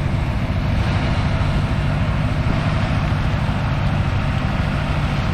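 Combine harvester running steadily under harvest load: a constant low engine drone with the even rush of the threshing machinery over it.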